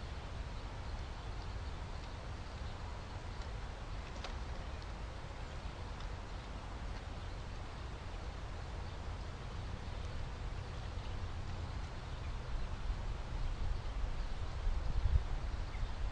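Outdoor background noise picked up by a trail camera: a steady hiss over a low rumble that grows louder and more uneven near the end.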